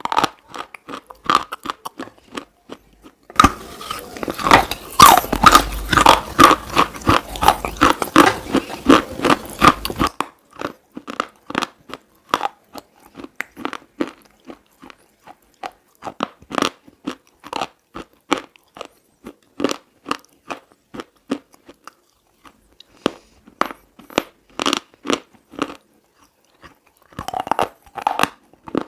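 Close-up crunching of brittle slate being bitten and chewed: a long run of sharp, dry crunches, coming thick and loud for several seconds early on over a low hum, then spaced out into single crunches and short clusters.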